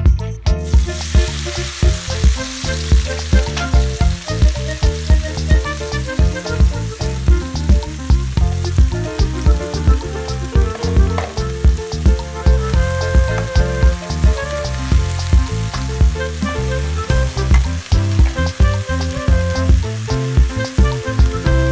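Food sizzling as it fries in hot olive oil in a pan, over background music with a steady beat.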